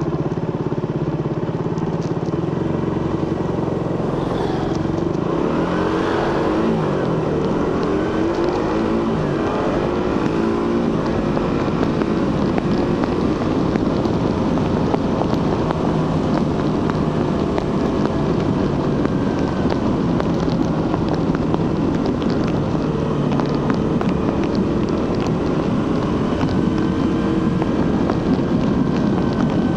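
Suzuki GSX-R150's single-cylinder engine and stock exhaust pulling the bike along at road speed, with wind rushing past. The engine note swings up and down for several seconds about four seconds in, then holds steady, climbing slightly near the end.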